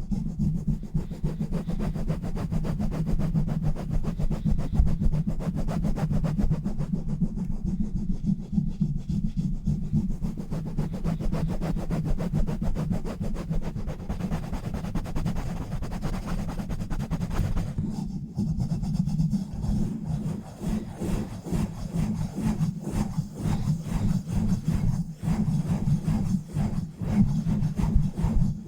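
Fast, rough rubbing and scratching directly on a bare microphone with no filter or cover, a dense, continuous run of rapid strokes heavy in low rumble. From about eighteen seconds in the strokes come more separately, with sharper scuffs.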